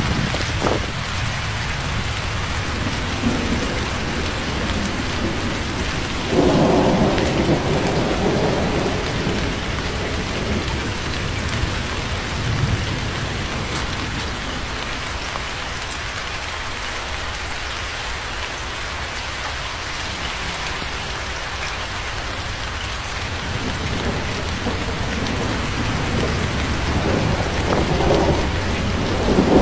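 Steady heavy rain falling, with a thunderclap about six seconds in that rumbles on for a couple of seconds, and more thunder building near the end.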